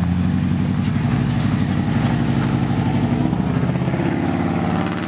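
Car engine running steadily while driving, its note edging up slightly about three seconds in.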